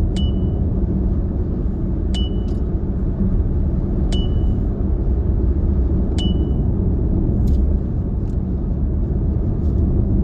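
Steady low road and engine rumble inside a moving car's cabin. A short, high, ringing ding repeats about every two seconds, four times.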